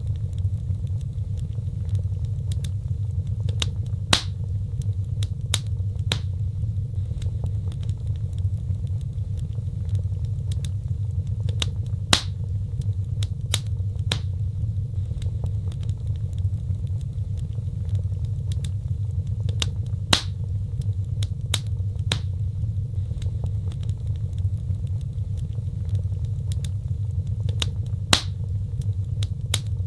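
Wood fire burning in a fireplace: a steady low rumble of flames with scattered sharp crackles and pops, a few of them louder, about every eight seconds.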